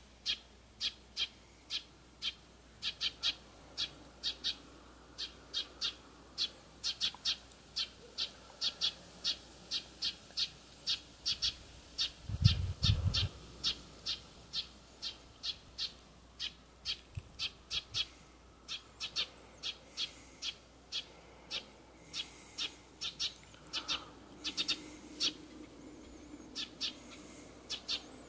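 A bird calling over and over in short high notes, about two a second and often in pairs. A brief low rumble comes about halfway through.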